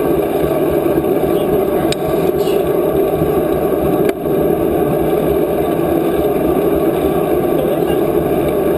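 Steady rushing noise of riding a bicycle: wind on the microphone mixed with tyre and road noise, with a couple of faint clicks.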